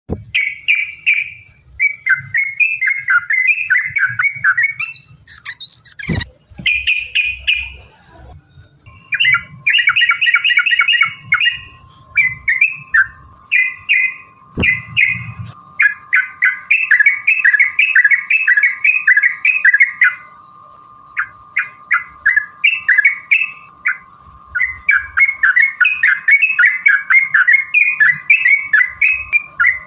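Yellow-vented bulbuls (trucukan) singing in long runs of rapid, bubbly chattering phrases, loud and almost continuous, as in a fighting bout. A faint steady tone joins about nine seconds in.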